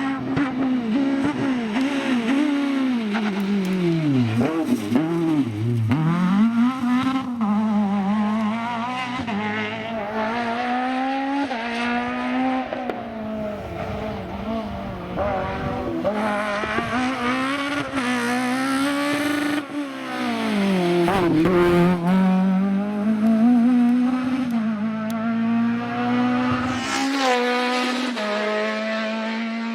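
Renault Mégane F2000 rally car's engine revving up and down as it is driven hard: the pitch climbs repeatedly through the gears and drops steeply under braking, with tyre squeal at times.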